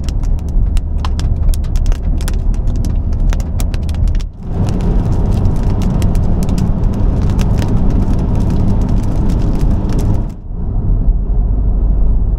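Huge raindrops striking a car in many irregular sharp taps over steady car road noise. The taps stop about ten seconds in, leaving the car's rumble.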